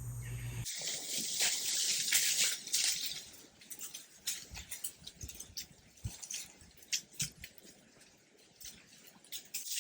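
Jungle ambience: a steady high hiss of insects, fading away after about three seconds, with scattered short clicks and taps.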